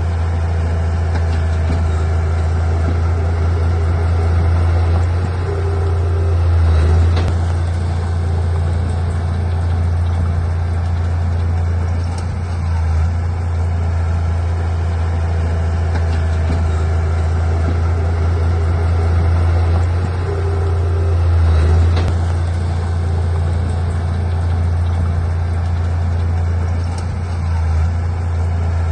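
Heavy diesel engine of a bulldozer or dump truck running steadily with a deep hum, swelling louder twice, about a quarter and three quarters of the way through.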